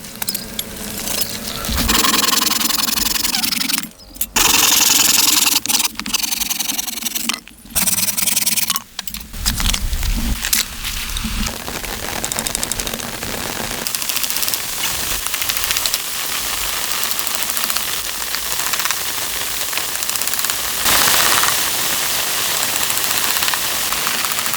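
Heavy rain falling as a steady, even hiss through the second half. The first half is a choppy stretch of mixed noise, broken by several abrupt dropouts.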